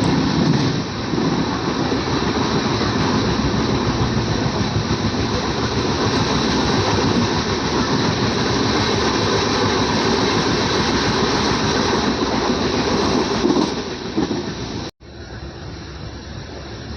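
Sleeper-class coach of the 17315 Vasco–Velankanni Express running on the line: a steady rolling rumble of wheels on rails with some clickety-clack and a thin high whine. About fifteen seconds in it cuts off abruptly and resumes much quieter.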